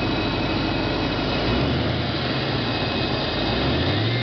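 Ford 5.0 V8 of a 1994 Mustang GT running, with a steady high-pitched whistle over the engine hum; the owner suspects the intake is whistling.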